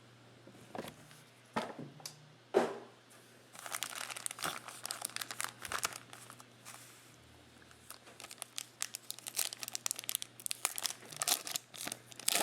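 Trading-card pack wrappers being torn open and crinkled by hand: a few sharp clicks, then runs of rapid crackling, about three and a half seconds in and again from about eight seconds on.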